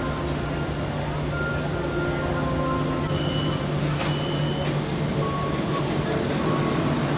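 Mumbai suburban electric local train standing at the platform, a steady low hum, with short high beeps coming and going and a sharp click about four seconds in.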